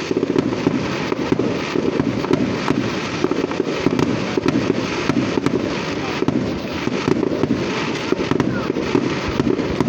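Fireworks going off in a dense, unbroken run of rapid crackling pops, many each second.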